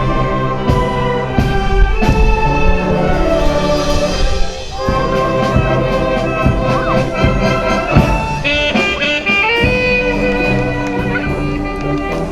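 Symphonic wind band playing a danzón, brass carrying held melodic notes over sharp, regular percussion strikes.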